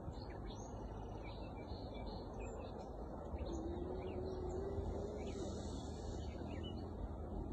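Birds chirping and singing in short repeated calls over a steady low rumble, with a faint wavering hum for about two seconds in the middle.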